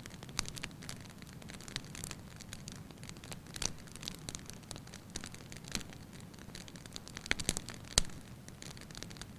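Wood fire burning in a fireplace: a low steady hiss with irregular sharp crackles and pops, the loudest pops at about 0.4, 3.7 and 8 s and a small cluster at about 7.5 s.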